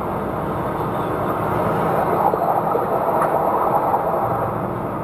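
Steady engine and road noise of a moving vehicle, an even rumble and hiss with no sudden events.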